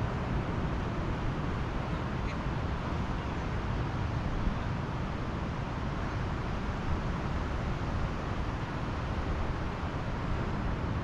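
Pacific Ocean surf on a beach: a steady, deep wash of noise with no breaks.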